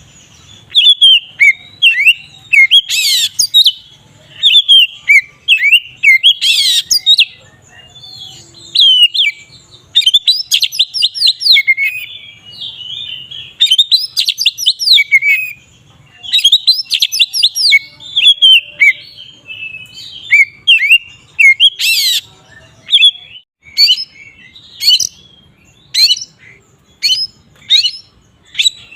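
Oriental magpie-robin (kacer) in loud full song: fast runs of varied whistles and chirps, broken by a few sharp piercing notes, then a string of short clipped notes about two a second near the end.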